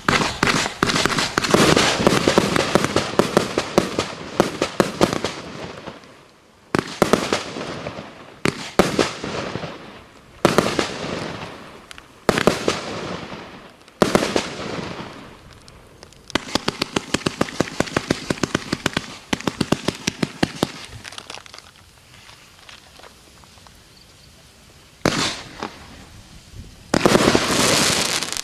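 Piroff 'Kilimanjaro' 134-shot combined firework cake firing its salvos: dense runs of bangs and crackling, single bursts with crackling tails every couple of seconds, a fast run of rapid shots, a quieter lull, then another dense crackling run near the end.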